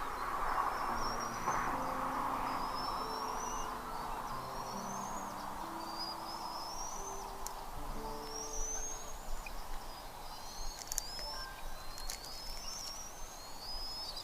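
A bird's high, rising chirps, repeated about every second or so, over soft background music of low held notes and a steady noisy hiss.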